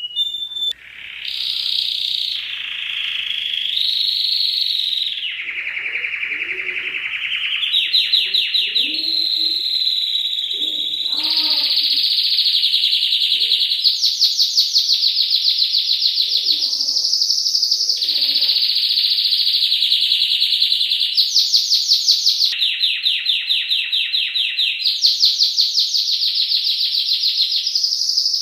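Domestic canary singing a long, unbroken song of rapid high trills, each roll of fast repeated notes lasting one to three seconds before switching to a different roll.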